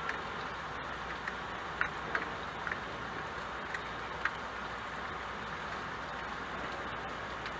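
Steady rain: an even hiss with a few louder drops ticking now and then, mostly in the first half.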